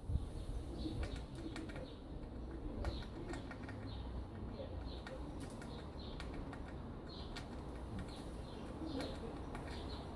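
Outdoor ambience: small birds chirping now and then over a steady low rumble, with a few faint clicks.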